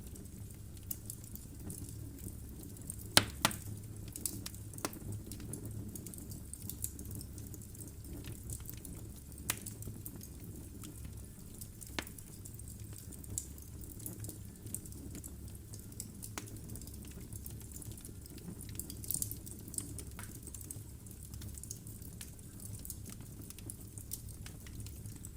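Wood fire burning in a fireplace: a steady low rumble of flames, with irregular sharp crackles and pops from the logs, the loudest pop a little after three seconds in.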